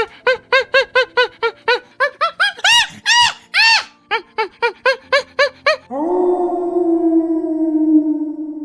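A small dog yapping in a rapid series of short, high yaps, about four or five a second. About six seconds in, the yapping stops and a single low musical note rings out and slowly fades.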